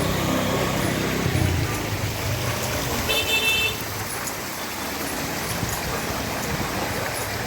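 Road traffic: a motor vehicle engine rumbling in the first second or two, then one short, high-pitched horn honk about three seconds in.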